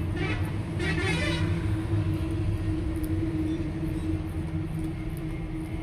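Truck engine running steadily, heard from inside the cab as a low drone with a constant hum, with a brief warbling higher-pitched sound in the first second and a half.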